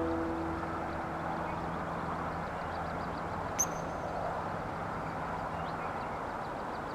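Steady outdoor background rumble with faint, scattered small-bird chirps. One brief sharp high click sounds about halfway through.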